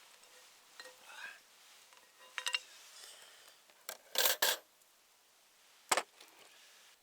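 Camp cookware and utensils clinking and knocking: a couple of light ringing clinks, then two louder sharp knocks close together, and one more knock about a second later.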